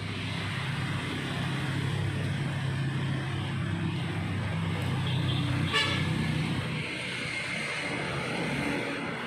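Road traffic going by: a heavy vehicle's engine running with a low steady hum that fades about seven seconds in, and one short horn honk just before six seconds in.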